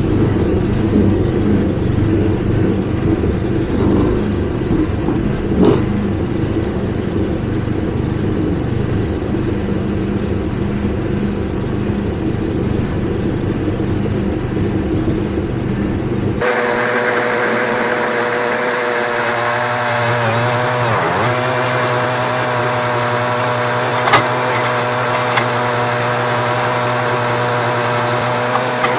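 A small engine runs steadily, low and rough, for about the first half. After an abrupt cut, a different steady engine sound follows, smoother and higher, whose pitch dips once as if briefly loaded and then recovers. A couple of sharp knocks stand out along the way.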